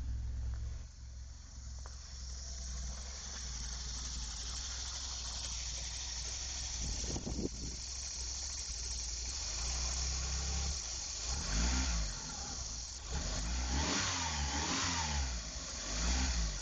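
Vauxhall 2.0 8-valve four-cylinder petrol engine idling steadily just after starting from cold after months unused. From about eleven seconds in, the throttle is blipped a few times, the engine note rising and falling.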